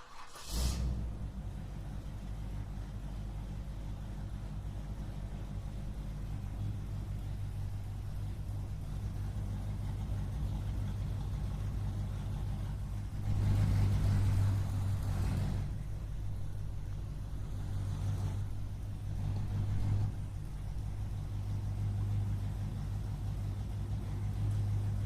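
A vehicle engine running steadily with a low hum, swelling louder for about two seconds around the middle and again briefly twice after.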